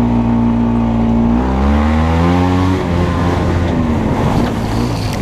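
Off-road vehicle engine working under load. It runs steadily, then its revs change about a second and a half in and rise and fall unevenly as it is pushed over rough ground.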